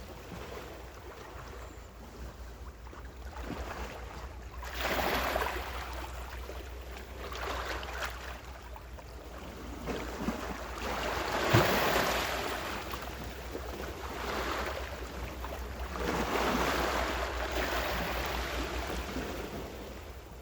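Small ocean waves breaking and washing up the shore, swelling and ebbing about four times, the loudest with a sharp slap near the middle.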